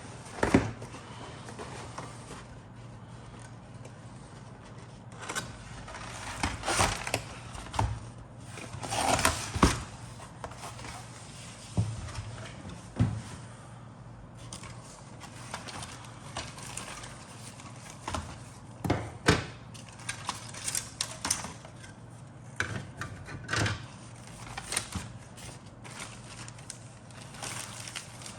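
A plastic model kit being handled and looked through: irregular rustling, clicks and light clatters of the box and its plastic parts, over a steady low hum.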